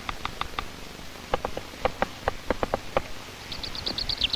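Great spotted woodpecker pecking at wood with its bill while shaping a holder to wedge a hazelnut in: irregular sharp taps, a few at first, then a quicker run in the middle. Near the end comes a rapid series of short high bird calls.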